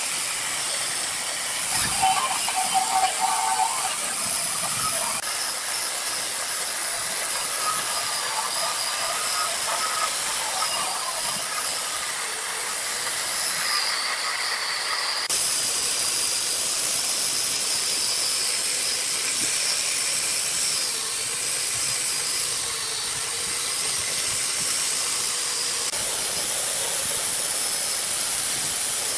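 Steady, loud hissing noise without a clear pitch, changing abruptly a few times.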